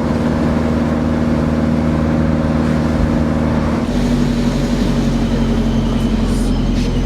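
Vehicle engine running steadily while driving, its note changing about four seconds in.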